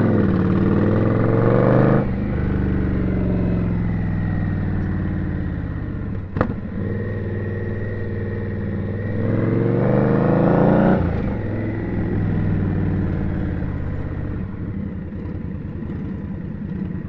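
Indian Scout motorcycle's V-twin engine pulling through traffic, revving up twice: once in the first couple of seconds and again from about nine to eleven seconds in, dropping back after each rise. A single sharp click comes about six seconds in.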